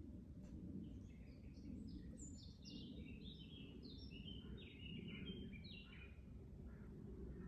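A songbird singing a fast run of short chirping notes that steps down in pitch over about five seconds, faint against a steady low background rumble.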